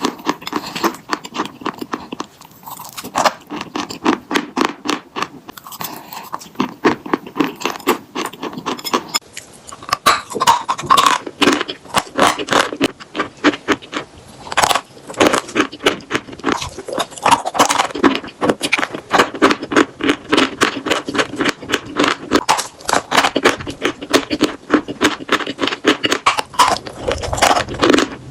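Chalk being crunched and chewed close to the microphone: a dense run of sharp, crackly crunches and scrapes.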